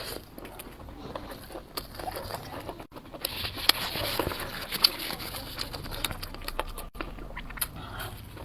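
Close-up eating sounds: food being bitten and chewed, with many small crisp clicks and crunches, busiest a few seconds in.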